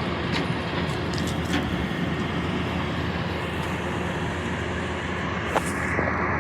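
Garbage truck's engine running steadily, with a few short sharp knocks, one louder near the end.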